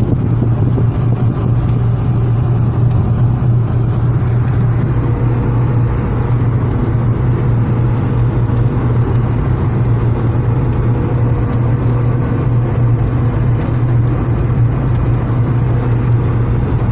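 Steady vehicle and road noise in the rain: an even rushing noise over a constant low hum, with no breaks.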